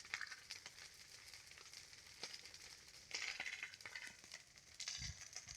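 Campfire crackling and hissing, with scattered sharp pops, and a low thump near the end.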